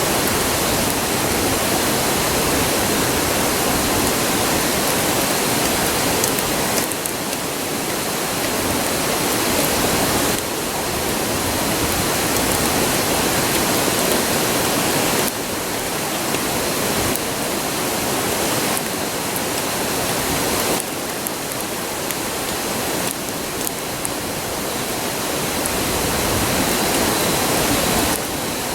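River rushing nearby: a steady roar of flowing water, with a few faint clicks of the campfire crackling.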